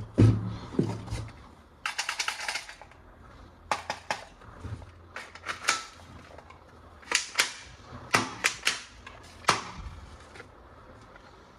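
Sharp plastic clicks and snaps from toy guns being handled, with a quick rattling run of clicks about two seconds in and single clicks and pairs scattered through the rest.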